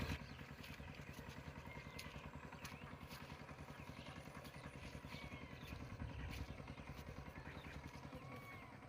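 A motor engine running steadily with a fast low pulse, along with a few short high chirps.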